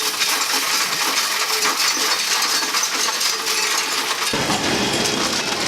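Coins rattling and clinking as they pour through a Coinstar coin-counting machine, a dense continuous jingle of many small clicks. A lower rumble joins about four seconds in.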